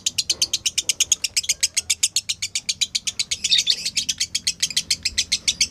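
Lovebird 'ngekek': a long, fast chattering series of sharp high chirps, about ten a second.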